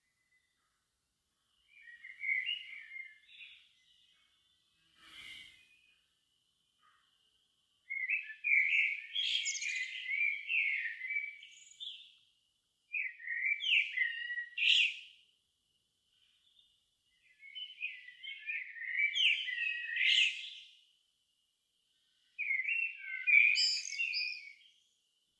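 A songbird singing in varied, twittering phrases of two to four seconds, about five of them, separated by short pauses.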